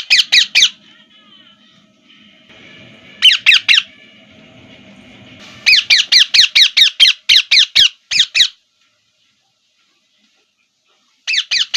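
Pet parrot calling in rapid runs of shrill, down-sweeping notes: a burst of about five right at the start, three about three seconds in, a long run of about a dozen from about six to eight and a half seconds, and another burst near the end.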